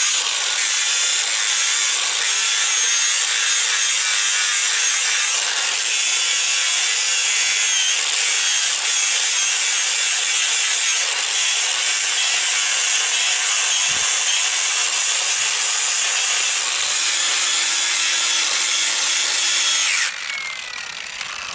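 Hand-held power grinder grinding down a horse's hoof, running steadily under load, then switched off about twenty seconds in and winding down.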